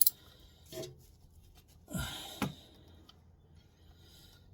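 A few short clicks and clinks of hand tools and metal parts being handled: a sharp click at the start, a smaller one about a second in, and two more around two seconds in.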